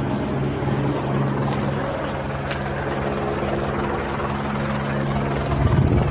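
A steady low engine drone with a fast pulsing beat under it, and a brief louder rush just before the end.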